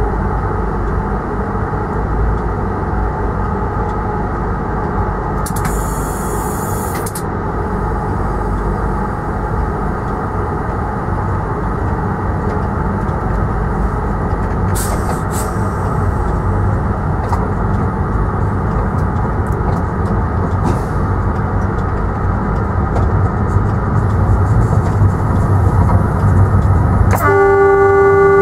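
Train running, heard from the driver's cab: a steady rumble that grows louder over the second half. Near the end a horn blast starts.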